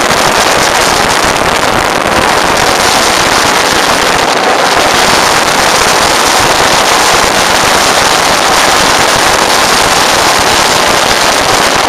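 A large model aircraft's engine and propeller running steadily at full throttle, very loud, while the plane is held back by hand for a static thrust run pulling around 20 kilograms.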